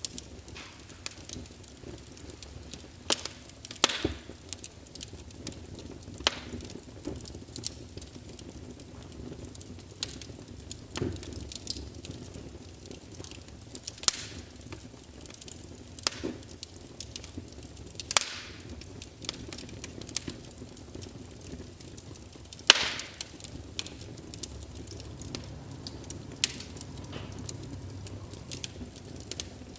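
Wood fire crackling: irregular sharp pops every second or so over a steady low hiss, the loudest pop about three-quarters of the way through.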